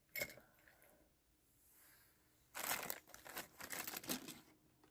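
Crinkling and rustling of handled packaging or a plastic bag in a run of short bursts over the second half, after a single small click near the start.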